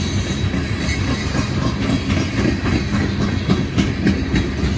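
Freight train rolling past, a steady low rumble of cars and wheels, with a run of wheel clicks on the rails in the second half.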